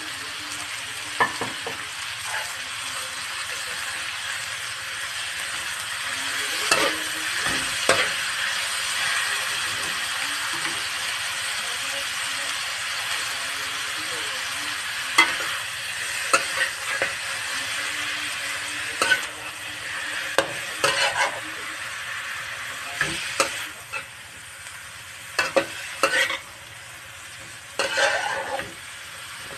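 Chopped banana heart and longganisa frying in a wok with a steady sizzle, while a spatula stirs and scrapes the pan, knocking against the metal a dozen or so times.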